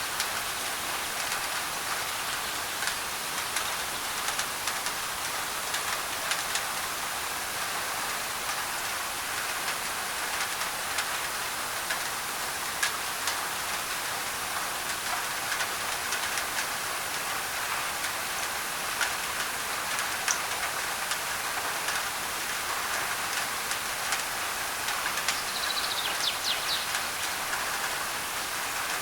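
Steady rain on a thin tin roof, an even hiss dotted with the ticks of single drops. A bird chirps briefly near the end.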